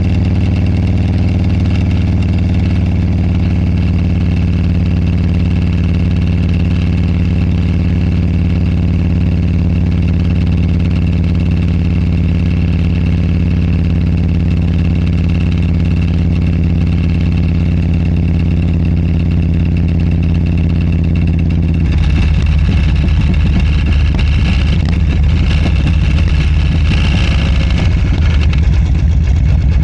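Motorcycle engine running at a steady pace, picked up by a clip-on lavalier microphone whose clip rattles. About 22 seconds in, the steady engine tone gives way to a rougher, windier noise that is a little louder.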